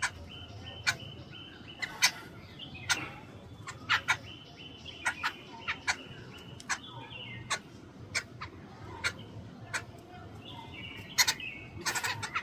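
Jungle babblers calling: short harsh notes repeated at irregular intervals, with bouts of rasping chatter, busiest near the start, in the middle and near the end.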